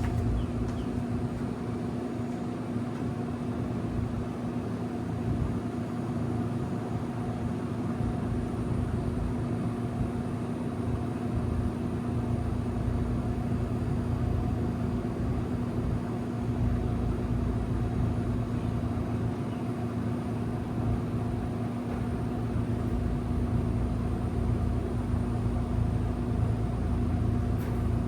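Trane XL heat pump outdoor unit running steadily in cooling mode, a constant hum with an even rush of noise.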